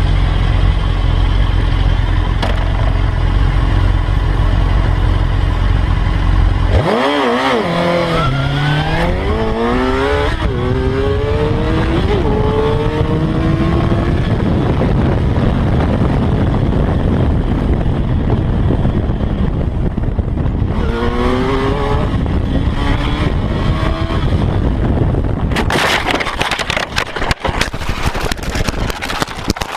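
Motorcycle engine accelerating hard under heavy wind rumble, its pitch climbing, dropping back and climbing again several times as it runs up through the gears. A rough, noisy stretch follows near the end.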